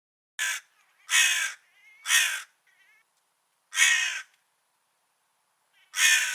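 Crow cawing: five harsh caws with uneven gaps, the first one shortest and the longest pause before the last.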